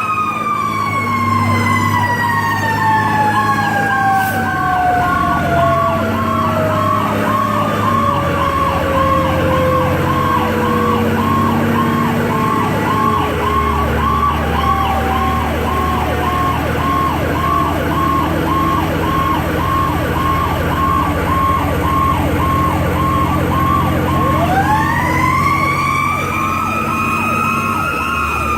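Fire engine's Q mechanical siren winding down slowly over about twelve seconds, then spooling back up near the end. Meanwhile an electronic siren yelps rapidly, about two cycles a second, over the truck's engine running underneath.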